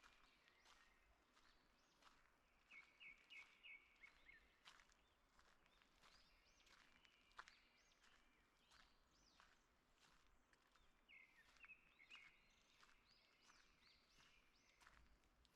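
Faint birds chirping, with two runs of quick repeated notes, over soft footsteps on a forest path.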